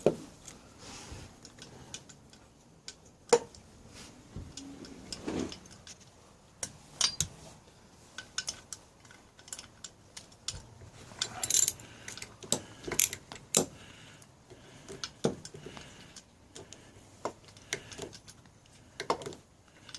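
Irregular metallic clinks and taps of hand tools and small metal parts being handled while working on a pocket bike engine, some louder knocks among them.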